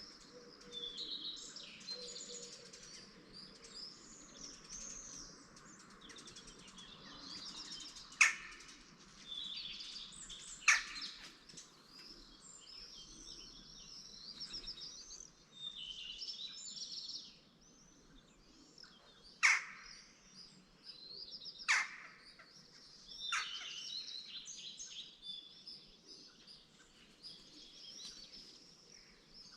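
Dawn chorus of many songbirds twittering and warbling over one another, with five sharp, loud, quickly falling notes cutting through at intervals.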